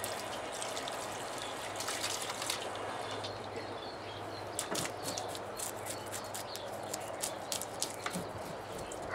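Steady outdoor background noise with a low hum and scattered faint clicks and ticks, thicker in the second half.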